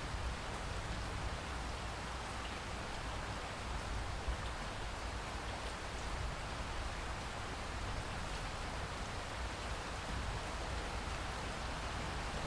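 Steady rain falling, an even hiss without a break, with a steady low rumble underneath.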